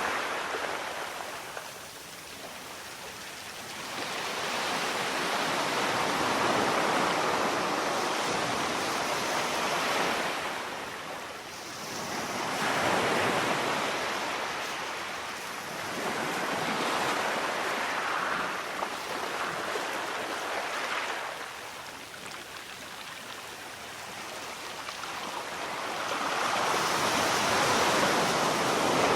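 Sea waves breaking and washing on the shore, a rushing noise that swells and ebbs in surges every few seconds, with the biggest surge near the end.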